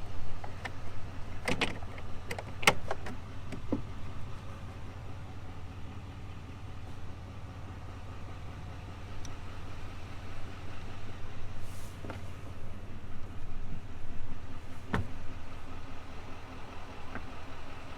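Steady low hum of the truck's 6.6-liter turbodiesel V8, with a few sharp clicks and knocks in the first few seconds and two more later on.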